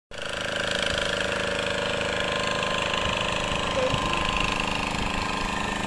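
An engine running steadily at an even speed, with a fast, regular beat and no change in pitch.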